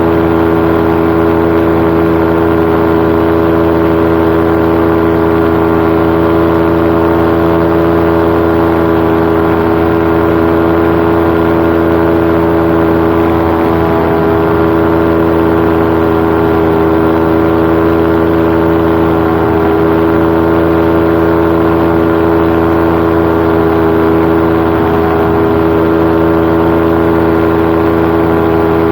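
Paramotor engine and propeller running at a constant throttle in cruising flight, a steady loud drone that holds one pitch throughout.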